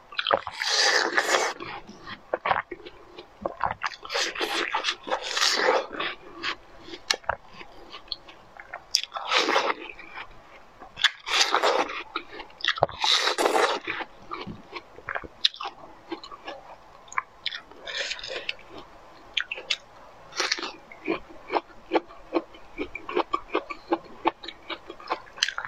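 Close-miked bites and chewing of crunchy food: a loud crunch every few seconds, with many small wet mouth clicks between them.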